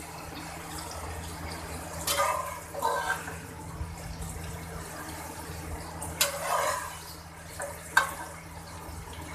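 Beef pieces, tomatoes and onions sizzling and bubbling in hot oil in a large aluminium pot, a steady hiss with a few louder spurts. A sharp click about eight seconds in.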